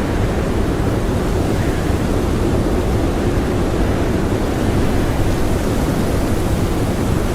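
Strong blizzard wind blowing steadily: a dense, even rush of noise, heaviest in the low range.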